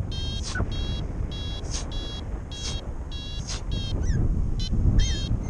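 Paragliding variometer beeping in quick repeated chirps, about two to three a second, the sound it makes in rising air, over steady wind rush on the microphone.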